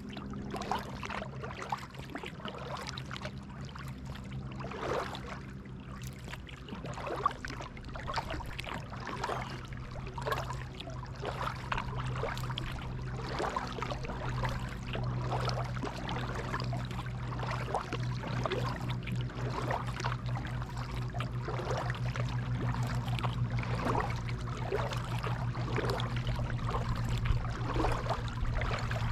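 Kayak paddle dipping into calm pond water, with splashing and trickling from the blades on each stroke. A steady low hum runs underneath.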